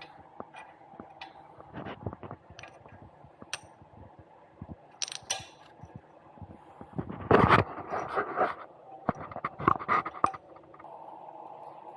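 Scattered clinks and knocks of parts being handled in a workshop, with a louder rattling clatter about seven seconds in and another a couple of seconds later, then a steady hum starting near the end.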